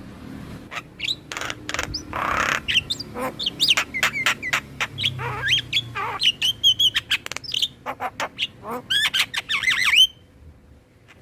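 Mynas chattering in a dense run of sharp whistled notes, clicks and squawks, with a harsh rasping call about two seconds in. The calling stops abruptly about ten seconds in.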